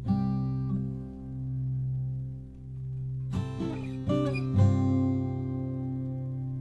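Acoustic guitar playing strummed chords left to ring: a chord at the start, a few quicker strums and picked notes about halfway through, then a fuller chord that rings out.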